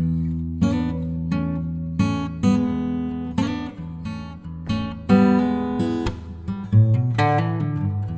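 Acoustic guitar music: strummed chords, with a run of single picked notes near the end.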